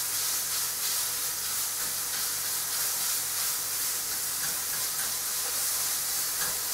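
Lean beef mince frying in a hot non-stick fry pan, a steady sizzling hiss, while a plastic spoon stirs it and breaks it up.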